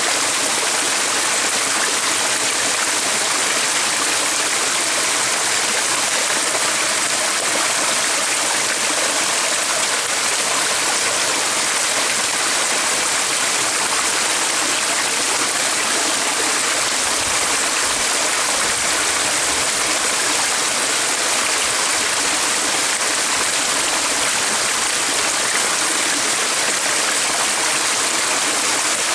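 Running water rushing steadily, like a brook flowing over stones.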